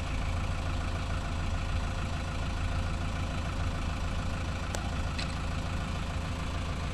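Diesel engine idling steadily, with a single sharp click a little under five seconds in.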